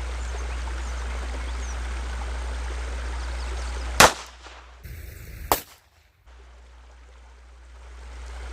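A single pistol shot from a Glock with an Advantage Arms .22 LR conversion kit, about four seconds in and the loudest thing here, described as so loud; the round stovepiped, the spent case jamming in the ejection port. A smaller sharp sound follows about a second and a half later, over a steady background rush.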